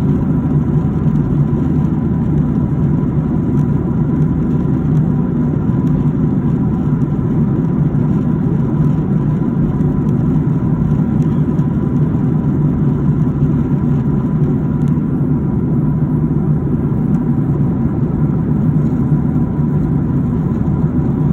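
Airliner cabin noise in flight: a steady low drone of engines and airflow, with a faint steady whine above it.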